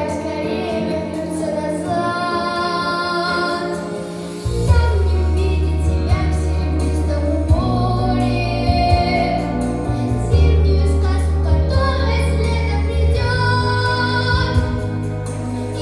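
A ten-year-old girl singing over instrumental accompaniment, holding long notes with vibrato over a steady bass line.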